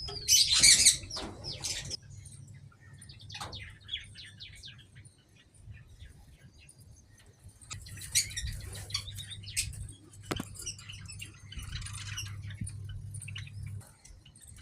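Aviary birds chirping in scattered calls, with a loud dense burst of calls about a second in and another flurry near the end.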